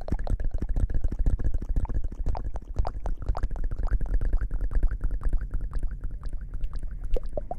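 Close-miked ASMR hair washing: a dense, fast stream of wet crackling and squishing, with a deep rumble from handling right at the microphone.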